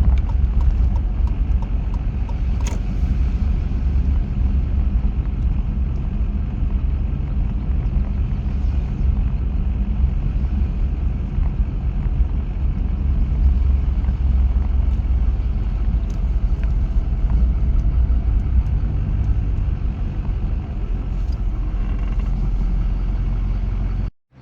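A car being driven: a steady low rumble of engine and road noise. It cuts off abruptly near the end.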